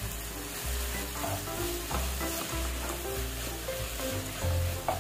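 Sliced onions and chopped tomatoes sizzling in hot oil in a pan, stirred and scraped around with a spatula, with a few short scrapes near the middle and just before the end.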